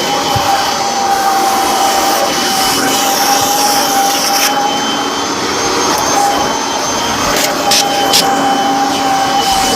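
Vacuum cleaner running steadily, its motor giving a continuous whine with a steady tone, with a few short clicks in the second half.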